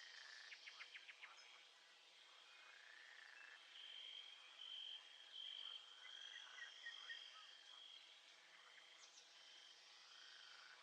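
Faint nature ambience: a steady high insect trill with scattered bird chirps, including a quick run of chirps about half a second in.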